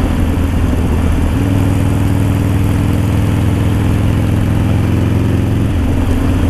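Harley-Davidson Sportster V-twin running under way through an aftermarket Danmoto exhaust, a steady loud engine note. The note shifts a little about a second and a half in and again near the end, as throttle or gear changes.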